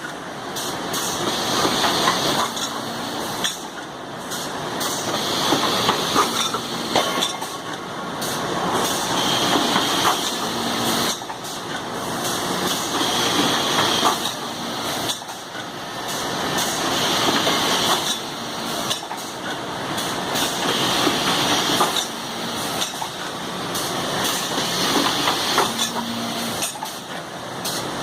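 Drilling machine with an automatic part unloader running in a repeating cycle, about once every four seconds, each cycle bringing a hiss with clattering and knocking of metal parts.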